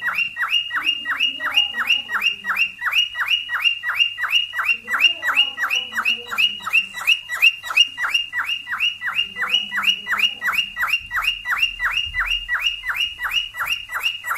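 Cockatiel mating call: a fast, even series of short downward-sliding chirps, about four a second.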